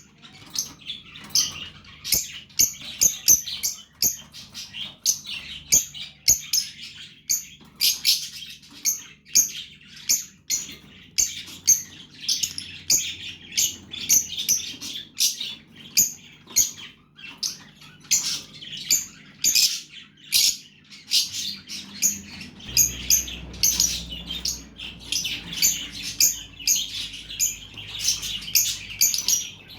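Fischer's lovebird chicks chirping: a dense, continuous stream of short, high calls, several a second.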